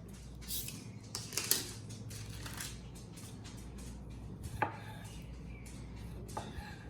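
Kitchen utensils and dishes being handled: scattered clicks and knocks, with a few sharper knocks near the middle and toward the end, over a low steady hum.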